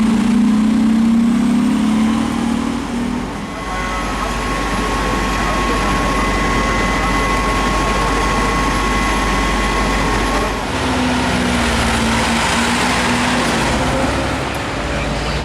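Heavy diesel engine of a fire truck running, with a steady high whine for several seconds in the middle.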